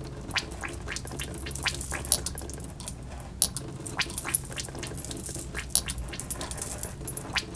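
Fingers working hair oil through hair and onto the scalp close to the microphone, making a run of irregular crackling clicks.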